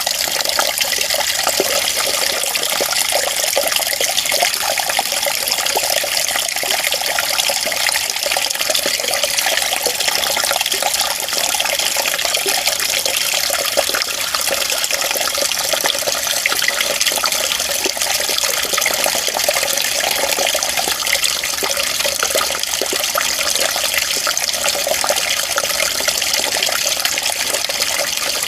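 Running water flowing steadily, an even bright rush with no bass and no change in level.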